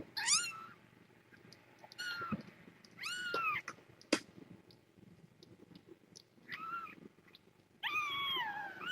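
Young kittens meowing: about five short, high-pitched meows, each falling in pitch, with one sharp click a little after four seconds in.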